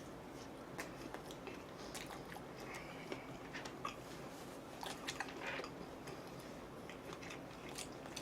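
A person chewing and biting food close to the microphone: quiet, with scattered small crisp clicks and short crackles.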